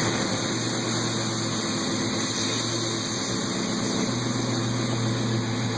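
A GM LQ4 6.0-litre V8, freshly swapped into a car, idles steadily on a cold start just after firing up. It runs through a 2.5-inch Flowmaster exhaust.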